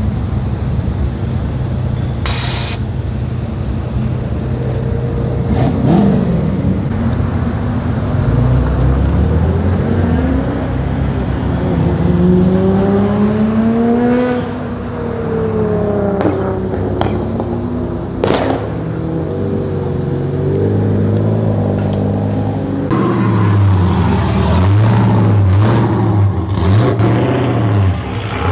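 Car engines running and revving, their pitch rising and falling as they pass, with a short loud hiss about two seconds in. Near the end one engine is revved up and down over and over.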